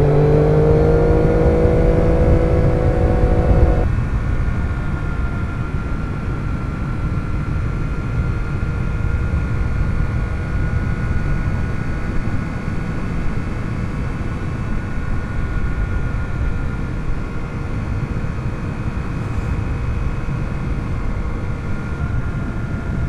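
Motorcycle engine rising in pitch under acceleration for about four seconds, then its note drops away abruptly, leaving a steady rumble of road and wind noise while the bike cruises. Heard through a lavalier mic inside the rider's helmet.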